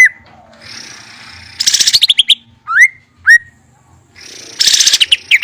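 Songbird singing loudly: quick runs of downward-sweeping whistled notes, two rising whistles near the middle, and two hissy stretches that build into loud rattling bursts, about a second and a half and four and a half seconds in.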